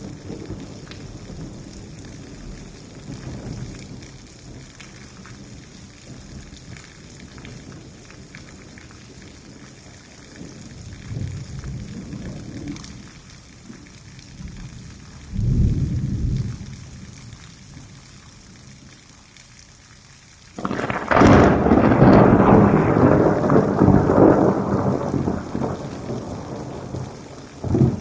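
Thunderstorm: steady rain with low, distant thunder rumbling now and then, then about three-quarters of the way through a sudden, much louder nearby thunderclap that cracks and rolls on for several seconds.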